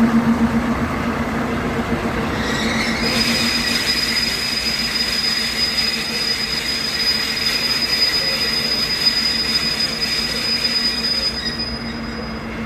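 SM30 diesel shunting locomotive running as it moves passenger coaches. From a couple of seconds in until near the end, the wheels give a steady high-pitched squeal on the track.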